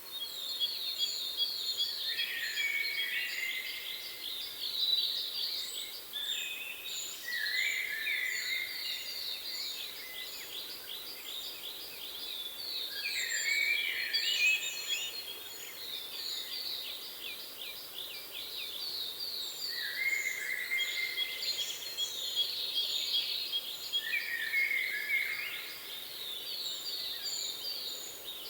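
Several songbirds singing at once: fast trills and chirping phrases overlap continuously, with a thin, high note repeated in quick series above them.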